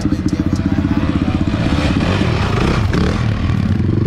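Dirt bike engine running loud with a fast pulsing exhaust beat, turning rougher and a little louder about halfway through.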